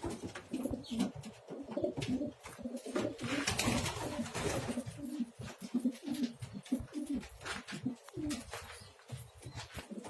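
Domestic pigeons cooing over and over in low, pulsing calls, with scattered clicks and rustles among them.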